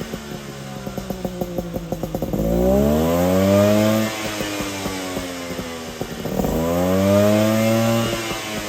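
Suzuki Jimny SJ30's two-stroke three-cylinder engine running through an Apio Matsumoto-type expansion chamber and Muffler 2 exhaust: idling with an uneven crackle, then revved twice, the pitch rising for a second or so each time before dropping back to idle.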